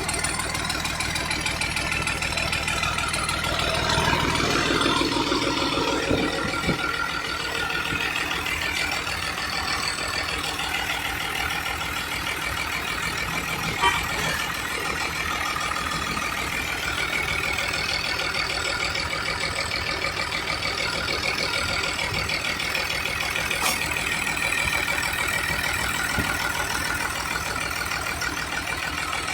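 An engine running steadily at idle, swelling louder for a couple of seconds about four seconds in, with a single sharp click near the middle.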